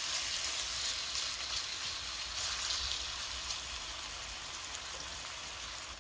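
Marinated chicken strips shallow-frying in oil in a nonstick wok, a steady sizzle that gradually gets quieter, as the pieces are turned with a silicone spatula.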